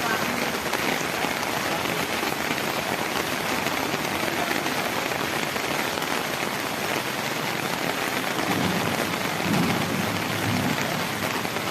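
Heavy monsoon rain pouring steadily, with a low rumble rising under it for a couple of seconds near the end.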